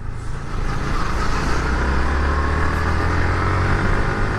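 Motorcycle running at a steady cruising speed: a low engine hum under a rushing haze of wind and road noise, growing a little louder about half a second in.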